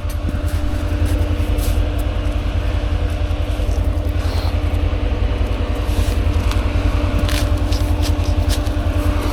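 Side-by-side UTV engine running steadily with a low, even throb, and scattered light clicks and scrapes over it.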